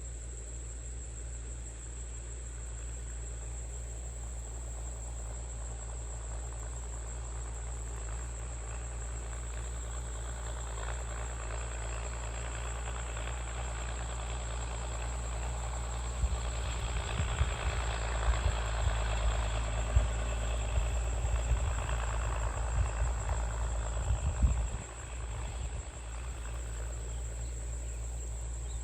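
Crickets trilling in one steady high tone over a steady low tractor engine hum. From a little past halfway a louder rumble with irregular low thumps builds, then drops off abruptly a few seconds before the end.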